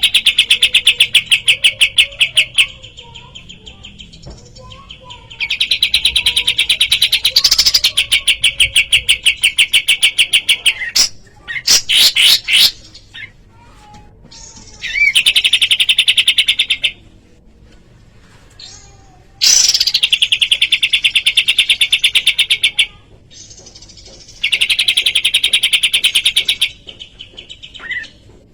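Kapas tembak bulbul singing its rapid trill: bursts of fast, evenly repeated high notes, each lasting a few seconds, with short pauses between. About halfway through comes a brief run of sweeping notes instead.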